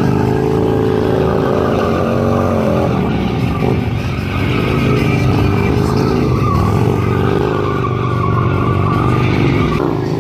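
Motorcycle engines running and revving, their pitch rising and falling.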